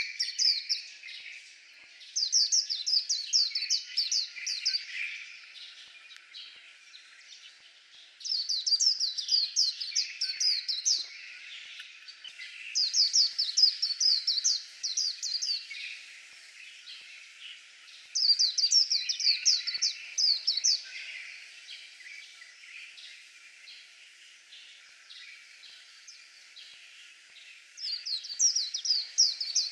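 White-eye singing: bursts of fast, high warbling song, each lasting two to three seconds and repeated five or six times, with softer twittering between the bursts.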